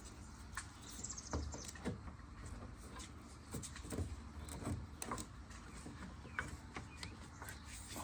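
Faint, irregular clicks and light knocks of hands working inside a car door, fitting a door-latch rod into its plastic retaining clip.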